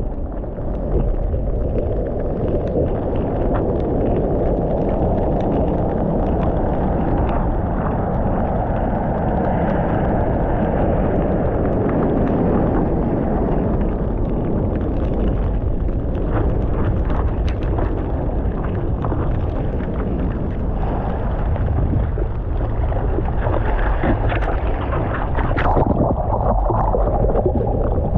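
Steady rushing of water and wind on the microphone, a dense noisy rumble with no clear tones.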